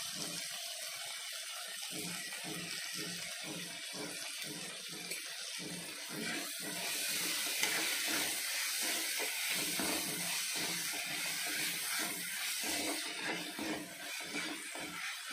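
Cowpeas, onion and tomato sizzling in a nonstick kadai, with a spatula stirring and scraping through them. The hiss gets louder about seven seconds in.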